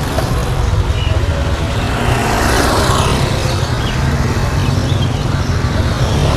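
Roadside traffic: a motor vehicle engine running steadily close by, with a vehicle passing about two to three seconds in. Faint short bird chirps sound over it.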